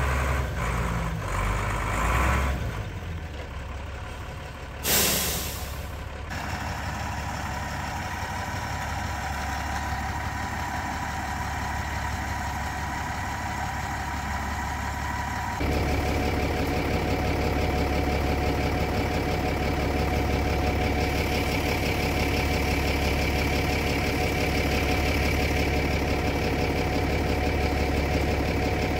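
A vehicle engine running steadily, with a short loud hiss about five seconds in. A little past halfway the engine note suddenly steps up and runs louder from then on.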